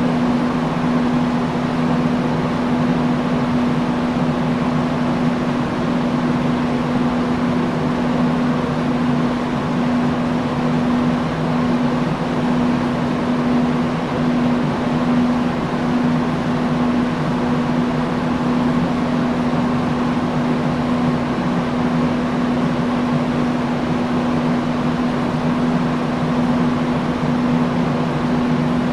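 Industrial fan running steadily: a constant whoosh of moving air with a low motor hum held at one pitch.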